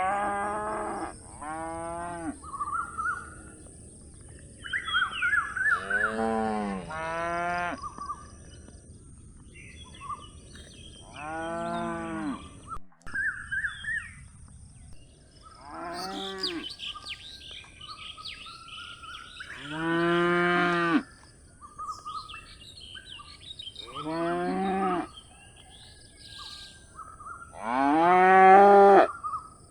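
Calf mooing over and over: about eight short calls of roughly a second each, some in quick pairs, with pauses of several seconds between. Birds chirp faintly in the gaps.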